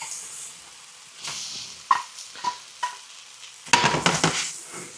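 Utensil stirring and scraping fried rice and chicken around a hot frying pan with a light sizzle. It works the crispy browned bits off the pan bottom in several short scrapes, a few with a brief ringing ping, then a louder, longer scrape near the end.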